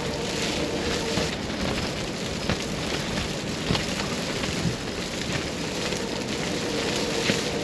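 Blizzard wind rushing steadily, with scattered light taps and clicks through it.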